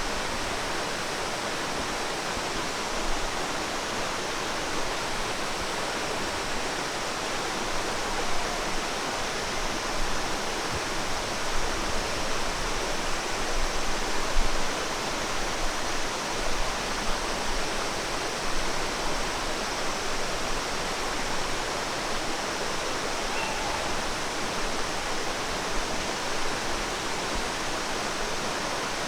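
Steady rushing of flowing water, an even hiss that swells a little in loudness now and then.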